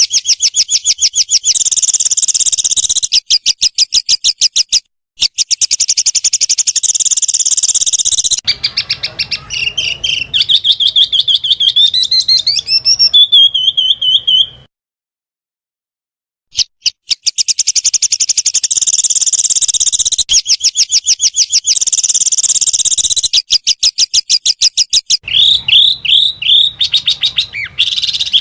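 Small songbird singing rapid-fire tembakan phrases: fast strings of sharp repeated notes in blocks of a few seconds. The blocks are cut off by sudden dead silences, with rising whistled notes in the middle and a run of quick chirps near the end.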